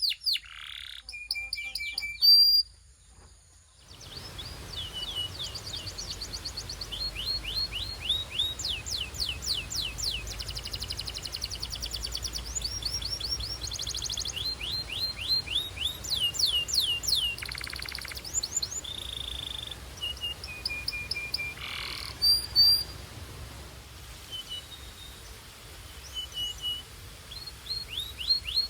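Belgian canary singing: rapid trills of short falling notes alternate with held whistled tones. There is a brief pause a few seconds in, after which a faint low hum runs under the song.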